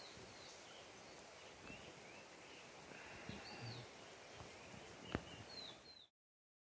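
Faint forest ambience with scattered short, high bird chirps, a single sharp click about five seconds in, and the sound cutting off to silence near the end.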